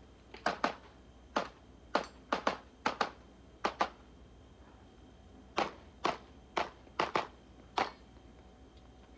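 Gen 5 Glock 19 9mm pistol fired in rapid strings of about sixteen shots, mostly in quick pairs, with a pause of nearly two seconds midway.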